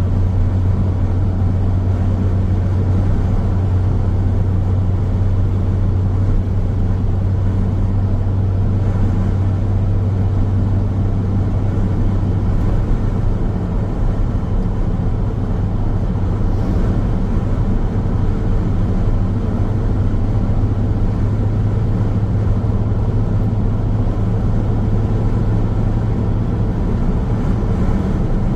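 Car travelling along a road: steady low rumble of tyre and road noise with the engine, even in level with no sudden events.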